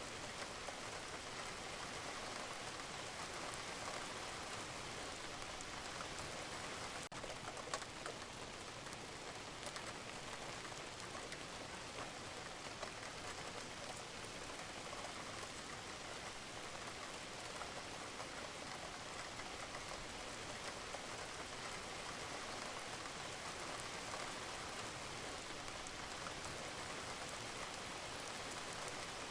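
Steady rain falling on a roof, with many small drops pattering and dripping; about seven seconds in there is a brief dip and a single sharper tick.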